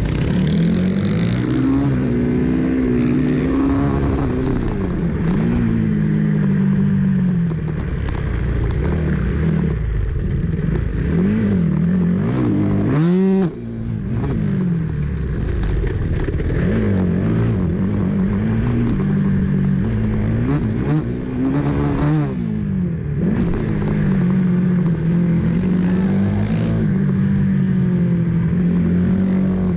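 Supermoto racing motorcycle engine at full race pace, heard from on board: the note climbs and drops again and again with throttle, gear changes and corners, with wind rush on the microphone. A sharp rev rise about 13 seconds in is followed by a brief drop in level.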